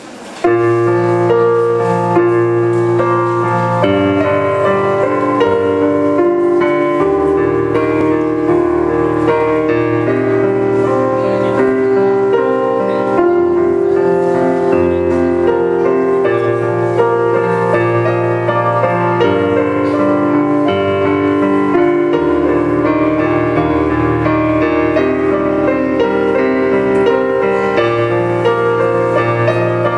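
Solo piano playing continuously, a running line of notes over held low bass notes, beginning about half a second in.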